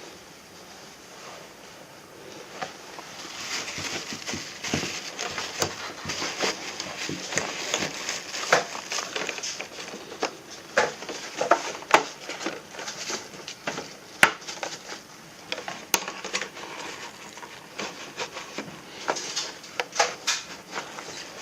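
Irregular light clicks, knocks and clatter of small hard objects being handled.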